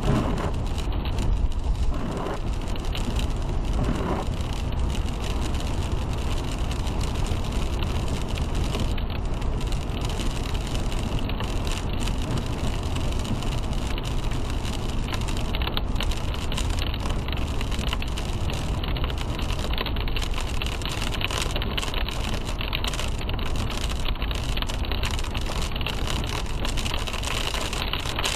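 A car driving on a wet road in the rain, picked up by a dash cam inside the car: steady road and tyre rumble with a rain hiss over it.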